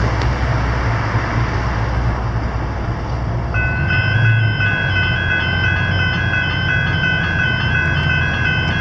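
General Signals electronic level-crossing bells start ringing about three and a half seconds in, a repeating electronic chime that signals the crossing activating for an approaching train. Under it a steady low rumble runs throughout.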